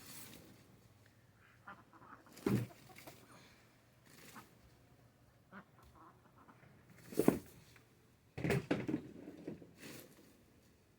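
Ducks quacking now and then: a few separate calls, the loudest about seven seconds in, then a short run of quacks soon after.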